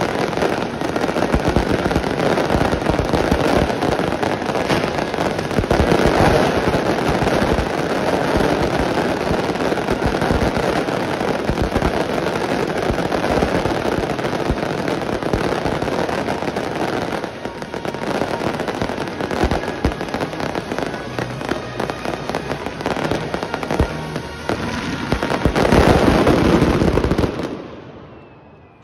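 Dense fireworks barrage, with many shells bursting and crackling at once in a continuous rapid volley that cuts off sharply near the end.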